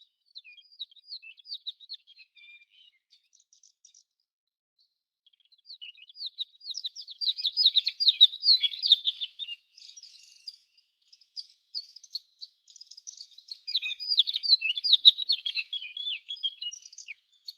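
A songbird's rapid twittering song, high-pitched chirps in bursts: a short phrase at the start, then two longer, louder runs about six seconds in and about fourteen seconds in.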